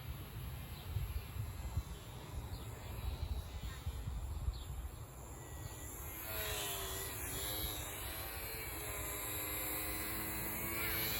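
Wind buffeting the microphone, then about six seconds in the whine of a small electric RC aircraft's motor and propeller comes in, its pitch wavering up and down as it flies.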